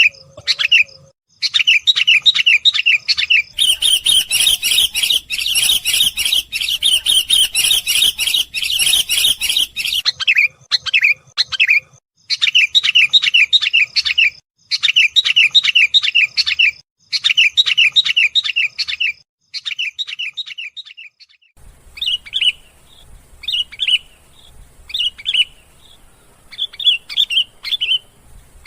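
Sooty-headed bulbul calling in fast runs of short chirps, the energetic chattering used as a lure call. A busier, hissier stretch comes a few seconds in, and the calls thin out to spaced single chirps toward the end.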